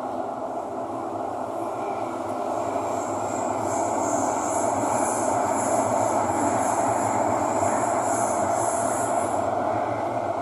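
Thomson-East Coast Line metro train running, a steady rumble of wheels on rail that grows louder. A thin, high-pitched wavering wheel squeal joins it about two and a half seconds in and fades near the end.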